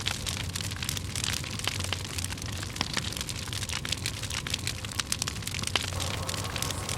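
Campfire of dry firewood burning, crackling with many quick sharp pops over a steady hiss.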